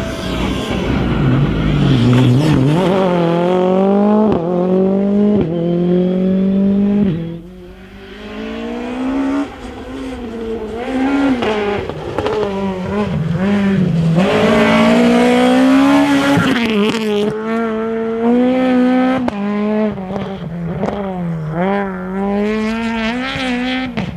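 Rally cars driven flat out on a closed special stage: the engines rev hard, the pitch climbing and dropping sharply at each gear change, car after car, with a brief lull about seven seconds in.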